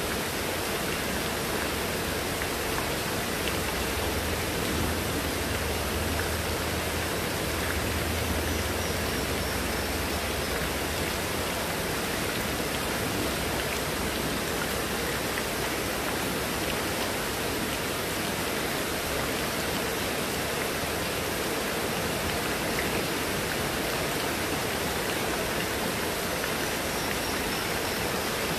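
Heavy rain falling steadily on garden foliage, railings and a wet tabletop, with water pouring off a roof edge.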